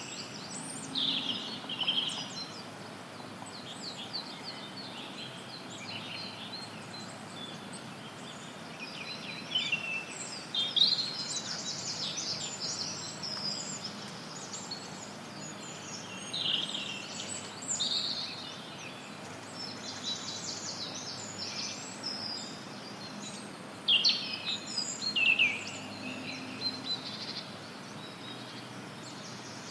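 Forest songbirds chirping and singing in short, scattered phrases over a steady background hiss of added white noise, with louder bursts of calls about a third of the way in and again a little past the middle.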